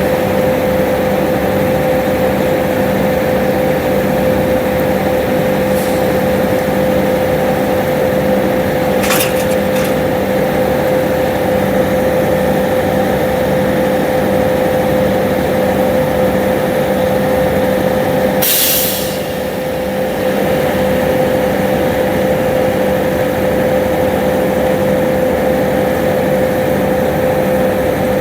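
Concrete mixer truck's diesel engine running steadily with a constant whine. Short air hisses cut in about nine seconds in and again, longer, about two-thirds through.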